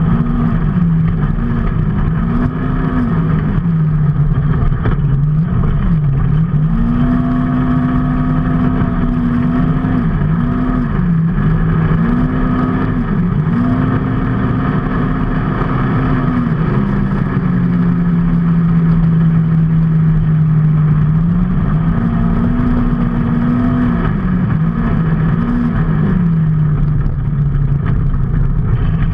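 Vehicle engine under way, its pitch climbing and dropping several times and holding steady for a few seconds at a time, over steady road and wind noise.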